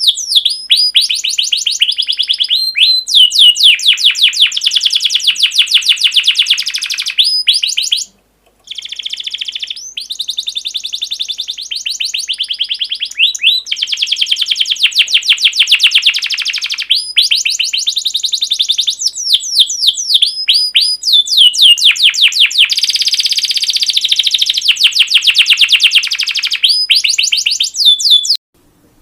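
Recorded songbird song of the kind played to train cage birds: long, fast trills and runs of rapid high repeated notes. It cuts off abruptly for a moment about eight seconds in and again just before the end.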